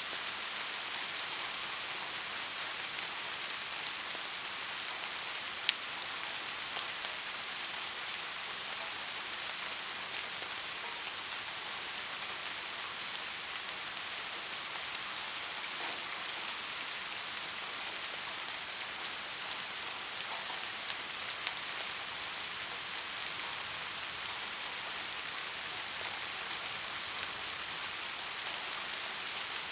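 Steady rain, a continuous even hiss of falling drops with fine scattered drop ticks. One sharp drop or tap stands out about six seconds in.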